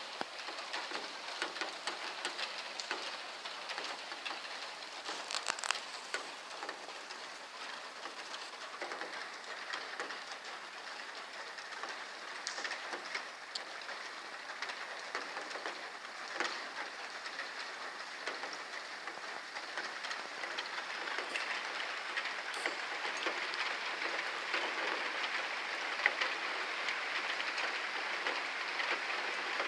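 Heavy rain falling steadily, with many drops ticking on hard surfaces, growing a little louder over the last ten seconds.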